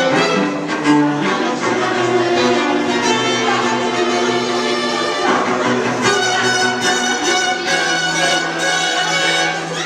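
String quartet playing: two violins, viola and cello in sustained bowed notes with a moving melody over a held low line.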